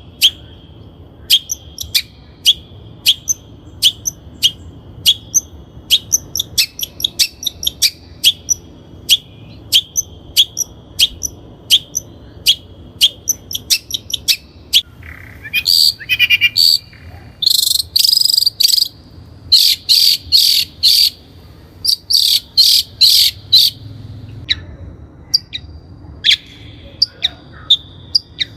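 Long-tailed shrike calling: a run of short, sharp, high notes about one or two a second, then from about halfway a dense burst of fast harsh chattering notes before the single sharp notes return. A thin steady high tone, like an insect, runs beneath.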